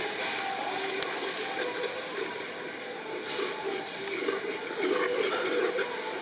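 Food frying in hot oil in a pan, a steady sizzle with scattered crackles that come thicker in the second half.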